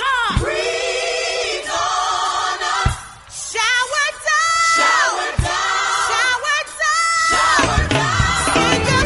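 Gospel song with a woman singing long, held notes with vibrato over backing vocals; a bass line and beat come in near the end.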